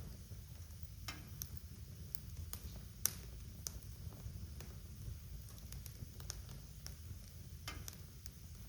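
Wood fire crackling in a fireplace: irregular sharp pops and snaps, the loudest about three seconds in, over a low steady rumble of the flames.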